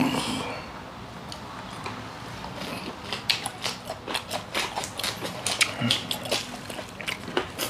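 Mouth sounds of eating: a lettuce wrap of raw rockfish being bitten and chewed, with many crisp, irregular crunching clicks. They come thickest from about two and a half seconds in.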